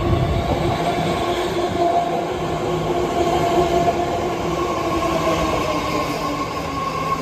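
BART Fleet of the Future train moving through an underground station: a steady rumble of wheels on rail with several held whining tones from the train that shift slightly in pitch.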